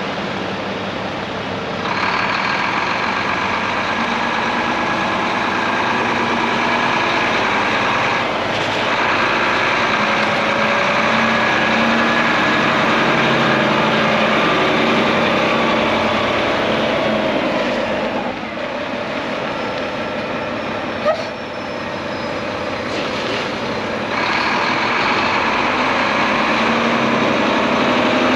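Heavy diesel engine of a 2012 Volvo VNM day-cab tractor running. Its sound steps louder and quieter several times, with one brief sharp hiss or click about three-quarters of the way through.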